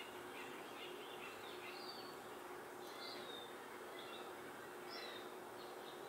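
Faint chirps and short falling calls of birds, scattered every second or so, over a steady low hum and background noise.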